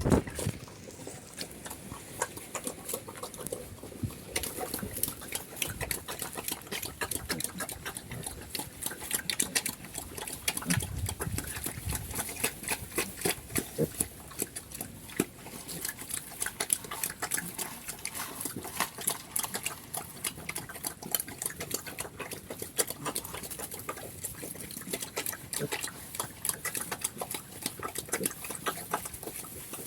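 Black Cambodian pigs eating: a continuous run of rapid, irregular wet smacking and chewing clicks.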